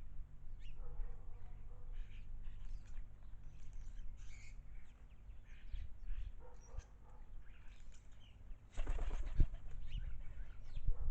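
Garden birds at a birdbath: scattered chirps, then about nine seconds in a loud burst of splashing and wing-fluttering lasting about a second as a bird bathes. A low rumble runs underneath.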